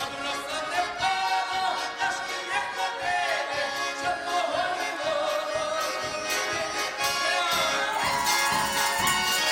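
Folk ensemble music from a Ukrainian folk song, with pitched instruments over a steady percussive beat.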